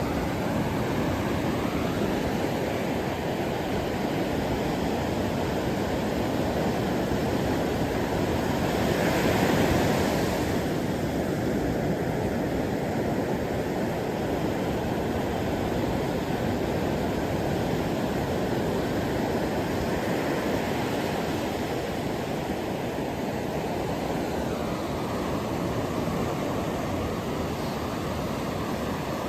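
Ocean surf: a steady rushing wash of waves, with one wave swelling louder about nine seconds in and easing off again.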